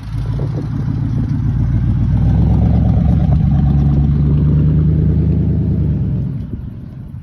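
2001 Ford F-150's 5.4L Triton V8 revved up through an aftermarket dual exhaust of 2.5-inch pipes and 5-inch tips, all four factory catalytic converters still in place. The engine note comes up sharply at the start, holds high for about six seconds, then falls back near the end.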